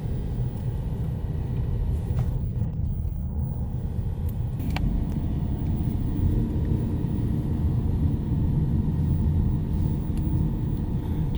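A car driving: a steady low rumble of road and engine noise. It cuts off abruptly near the end.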